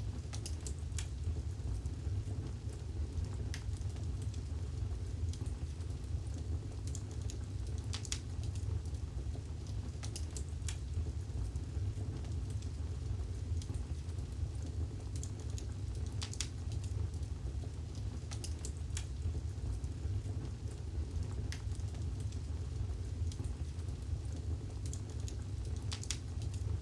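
Wood fire burning in a fireplace: a steady low rumble of flames with irregular sharp crackles and pops, a few coming in quick clusters.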